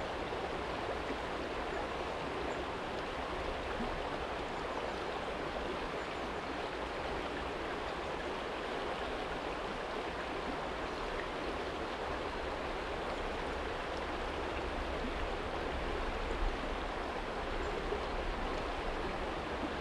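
Small stream flowing over a stony bed, with a steady, even rush and babble of water.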